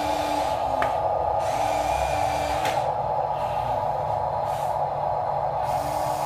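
Small electric motors and gearboxes of radio-controlled construction toys whirring with a steady high whine, while a second lower motor hum starts and stops several times. Two sharp clicks come about a second and nearly three seconds in.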